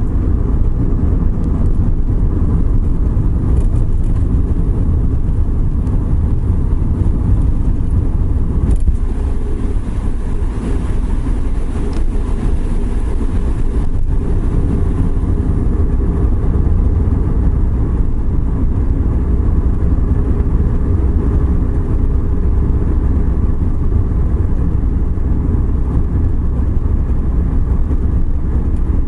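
Suzuki Every Wagon driving on a wet road: steady engine and tyre noise, mostly a low rumble.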